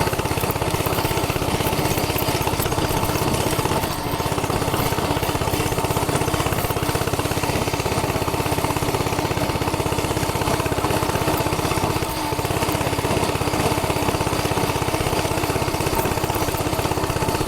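Coleman CC100X minibike's 100cc four-stroke engine running steadily under way, a fast even putter that dips briefly twice.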